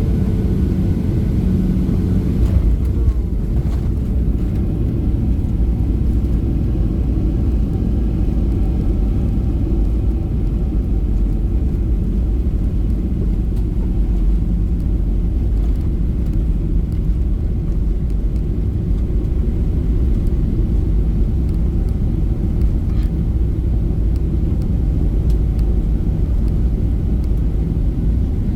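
Steady low rumble of a Boeing 737-800's CFM56-7B jet engines and the airflow, heard inside the passenger cabin in flight.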